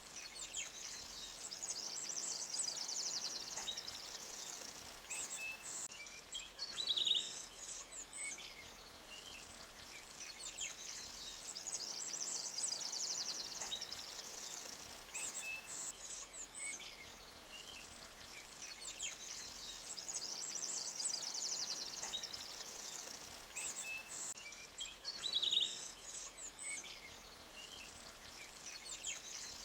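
Forest ambience: small birds chirping and trilling high-pitched in repeated phrases over the faint, steady hiss of a stream flowing between rocks, with two louder sharp chirps about a quarter of the way in and again near the end.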